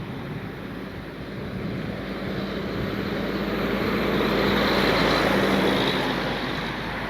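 A vehicle passing by: a rush of noise with a steady hum that swells to its loudest about four to six seconds in, then eases off.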